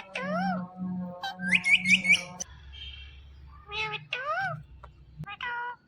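Ring-necked parakeet calling: several whistled calls that rise and fall in pitch, with a quick run of four short rising chirps about one and a half seconds in.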